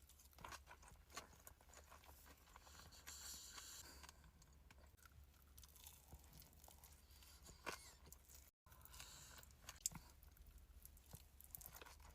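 Faint chewing and wet mouth sounds of someone eating a big salmon and tuna sushi roll, with scattered small clicks.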